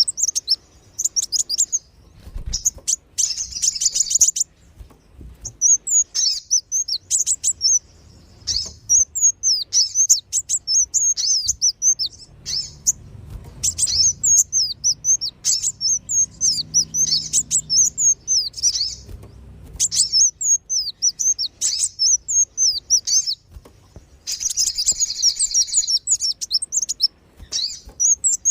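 Sunbirds calling, as used on a bird-lure track: a rapid series of sharp, high-pitched chirps, with dense twittering runs near the start and again near the end.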